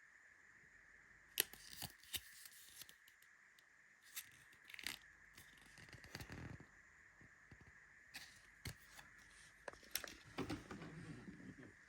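Quiet handling noise: scattered sharp clicks and taps with short tearing and crinkling of packaging, over a faint steady high hum.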